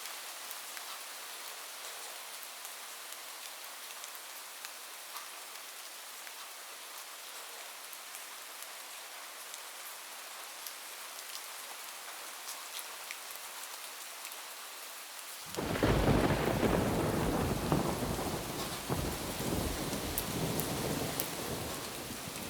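Steady rain on a roof, with scattered drops ticking, then about two-thirds of the way through a sudden loud clap of thunder that rolls on as a long rumble, easing a little near the end.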